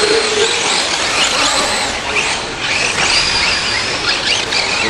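Several radio-controlled 4WD short-course trucks racing, their motors and drivetrains giving high whines that rise and fall in pitch as they accelerate and slow around the track.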